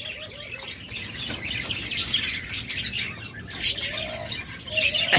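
Many small caged birds chirping and chattering together, with short high chirps overlapping throughout and a brief lower note about four seconds in.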